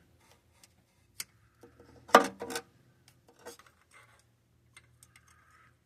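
Scattered light metallic clicks, taps and scrapes of a hand tool working at the engine, with a sharper clink about two seconds in.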